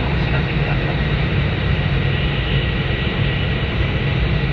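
Steady running noise inside an E2 series Shinkansen car: a low rumble under a continuous even rush.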